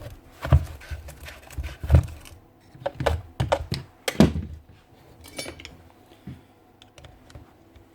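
Irregular knocks and clicks of hard objects being handled, with several loud thunks in the first half and fainter, sparser clicks later.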